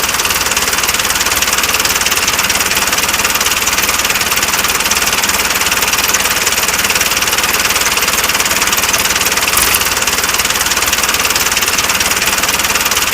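Small electric motor and gears of a homemade model tractor running steadily at constant speed with a fast, even buzz.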